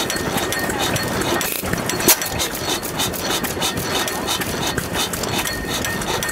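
Old hit-and-miss stationary engine running with a steady clatter, with one sharp bang about two seconds in.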